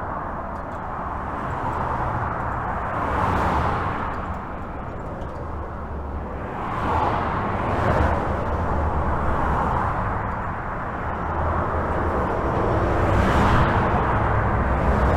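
Steady highway traffic heard from under a bridge: a constant rush of tyres and engines with a low rumble. Louder swells come as single vehicles pass, a few seconds in, around the middle, and near the end.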